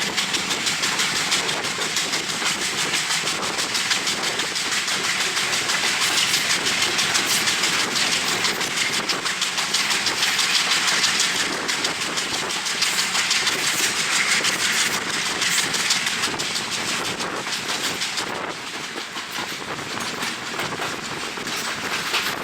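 Sri Lankan passenger train running on the rails, wheels and carriage clattering steadily under wind noise on the microphone at the open window. The noise eases off a little about three-quarters of the way through.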